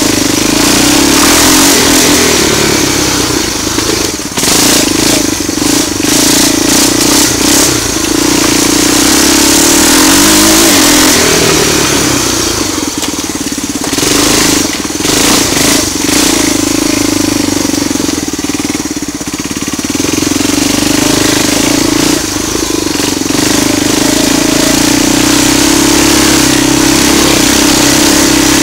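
ATV engine running loud through a homemade straight-pipe exhaust built from the stock muffler's baffle, under way on a ride. Its level drops briefly a few times, near 4 s, 13 s and 19 s.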